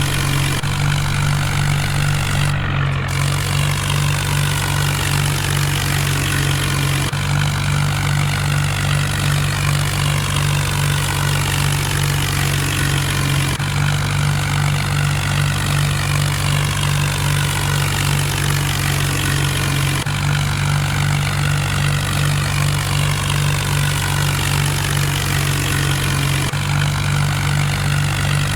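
Mahindra Arjun tractor's diesel engine running steadily under a constant load. The sound shifts abruptly every six or seven seconds.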